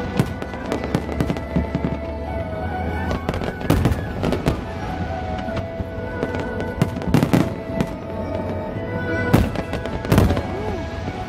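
Aerial fireworks bursting in a fast, uneven series of sharp bangs, with several loud clusters, over music.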